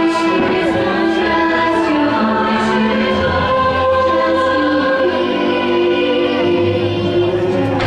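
Choir singing sustained notes over an orchestral soundtrack for a fireworks show, with a few faint sharp pops.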